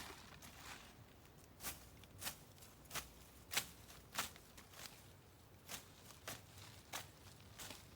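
Footsteps at a steady walking pace, about one and a half steps a second, stopping for about a second and a half halfway through.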